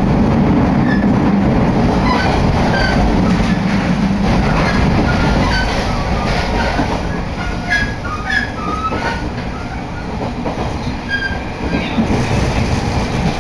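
Steady running noise inside a moving electric commuter train: wheels rumbling on the rails, with short high squeals from the wheels scattered throughout. The noise eases slightly for a few seconds past the middle.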